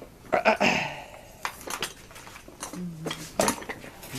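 Clicks and clattering knocks of hard objects being handled, with a short scraping rustle about half a second in.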